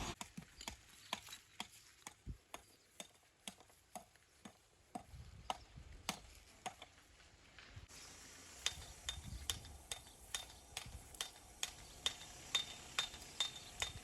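Steady run of sharp, clinking taps, about two a second, like a hammer striking stone; after about eight seconds they come a little faster and louder.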